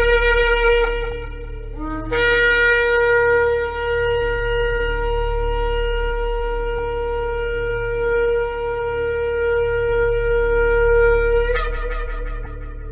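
Shofar blasts: a short blast that stops about two seconds in, a brief low note, then one long steady blast of about nine seconds that jumps up in pitch near the end and trails off. A steady low hum runs underneath.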